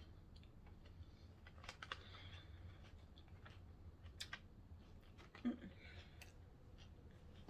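Faint eating sounds, a sandwich being chewed, with scattered small clicks over a low steady room hum; a few sharper clicks come near the middle and about two thirds of the way through.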